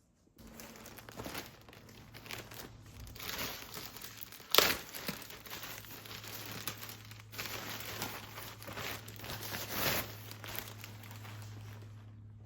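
Crinkling and rustling of packaging being handled, with a sharp knock about four and a half seconds in, over a steady low hum.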